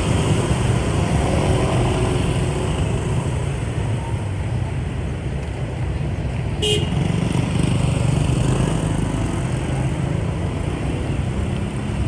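Motorbike riding in traffic: steady engine and road rumble, with one short vehicle-horn toot a little past halfway.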